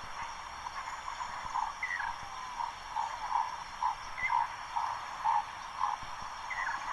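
Recorded nature soundscape: short croaking calls repeat about twice a second, with a brief higher chirp three times and a steady high-pitched hum underneath.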